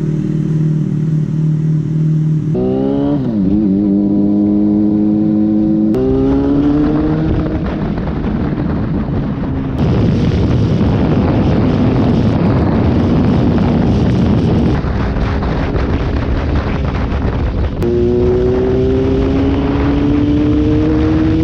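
Yamaha Fazer 600 motorcycle's inline-four engine running and accelerating, its pitch rising as it pulls through the gears, several times. In the middle, heavy wind rush at road speed covers the engine.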